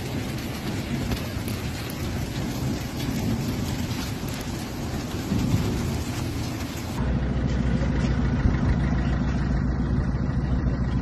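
A storm with rain and hail pelting down in a dense steady hiss. About seven seconds in, the sound changes abruptly to a duller patter under a steady low rumble.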